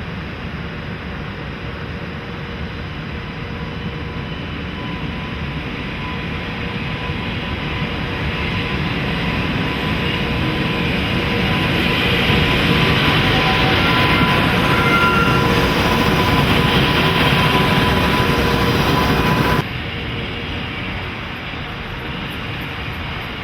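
Electric locomotive hauling a freight train, running with a steady hum that grows louder as it nears, then cuts off suddenly near the end to a quieter rumble.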